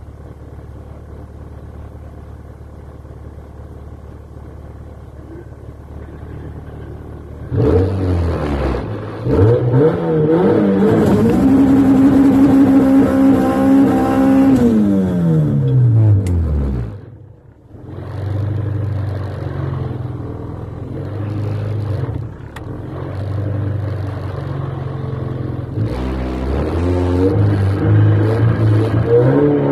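Honda F20B inline-four in a Civic, heard from inside the cabin: it idles, then revs up about eight seconds in and holds high revs for a few seconds before falling back. It runs low and uneven for a while, then the revs climb again near the end.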